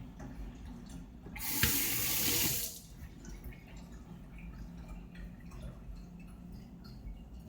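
Water running for about a second and a half, starting a little over a second in, then stopping.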